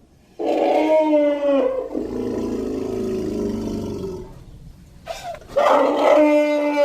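Cartoon Minotaur's roars: a held, pitched roar, then a lower, rougher growl that fades out, and after a short pause another held roar beginning about five and a half seconds in.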